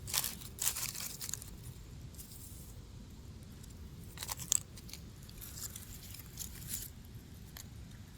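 Faint scattered clicks, scrapes and crunches in a few short clusters, over a low background rumble.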